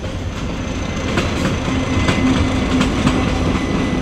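A passenger train passing at speed: a steady rumble, with the wheels clicking irregularly over the rail joints and a faint low steady hum underneath.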